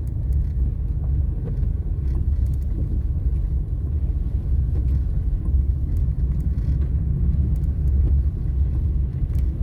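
Steady low rumble of a car driving slowly over a snow-covered road, heard from inside the cabin, with a few faint ticks.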